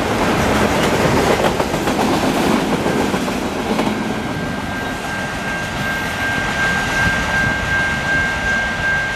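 Auto rack freight cars rolling past on the rails, loud through the first few seconds, then easing off as the end of the train passes and moves away. A steady high whine comes in about halfway through and holds.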